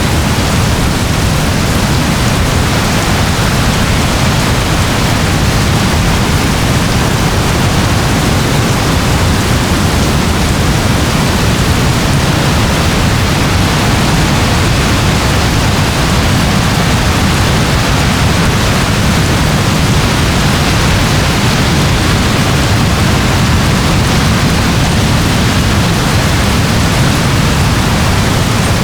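Steady rain: an even, unbroken hiss with a strong low rumble underneath.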